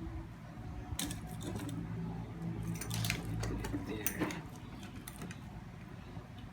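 Small metal hand tools being handled and put away: a few sharp clicks and clinks about one, three and four seconds in, over a low steady hum.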